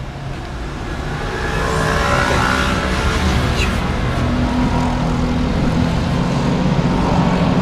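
Street traffic: a motor vehicle's engine running with a steady low hum over road noise, growing louder over the first two seconds and then holding.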